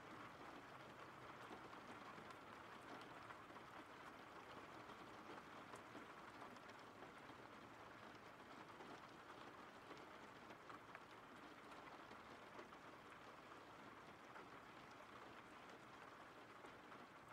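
Faint, steady rain: an even soft hiss with scattered patter of individual drops.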